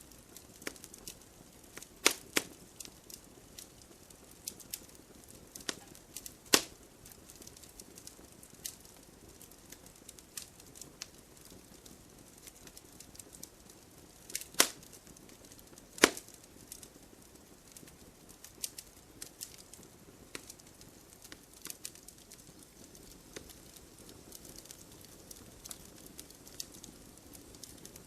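Wood campfire crackling, with scattered sharp pops over a low steady hiss and a few louder snaps at intervals.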